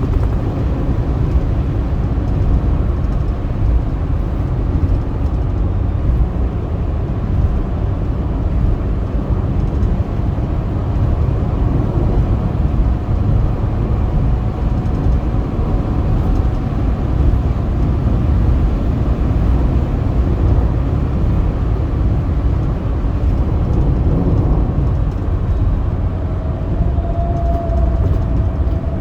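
Steady low road and engine noise of a car driving on a highway, with a faint thin whine near the end.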